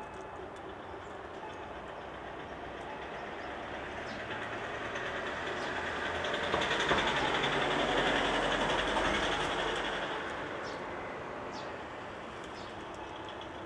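A vehicle passing by: a broad rumbling noise that swells for several seconds, peaks just past the middle and fades away.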